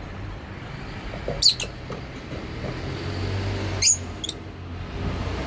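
Lovebirds giving short, sharp, high-pitched chirps: one loud call about a second and a half in and two more close together near the end, over a steady low background rumble.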